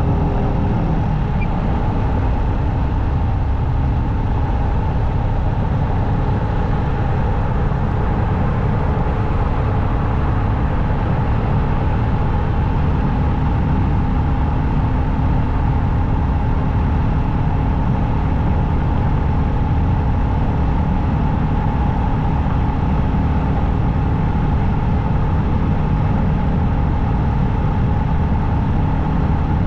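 Motorcycle engine running steadily, heard from the rider's position, mixed with road noise.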